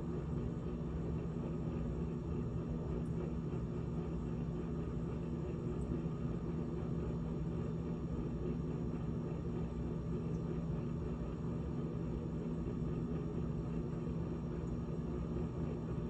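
GE GTH18XCTZRBB refrigerator running: a steady low hum with a few fixed tones over a soft whirring noise.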